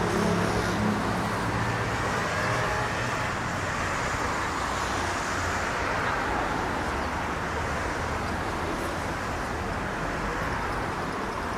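Steady road traffic noise. A vehicle's engine drone fades out during the first couple of seconds.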